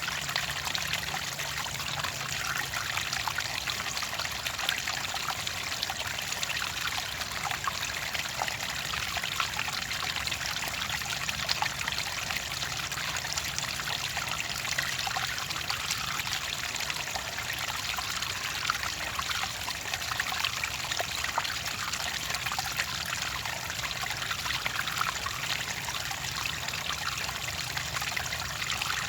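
Clear water trickling and splashing in a steady, unbroken flow, full of small bubbling splashes.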